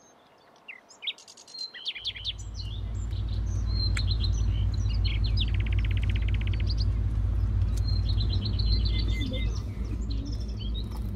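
Songbirds chirping, with a fast trill about halfway through. A steady low rumble comes in about two seconds in and is the loudest thing from then on.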